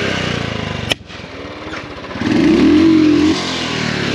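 Sport motorcycle engine running, with one sharp exhaust pop (backfire) about a second in. After that it revs hard for about a second, the pitch climbing and then holding, and drops back to a steady idle.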